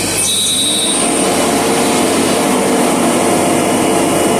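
Merlo telehandler's diesel engine running under load as it works the telescoping boom and grapple, a steady machine hum that climbs slightly in pitch about a second in, with a brief high whine near the start.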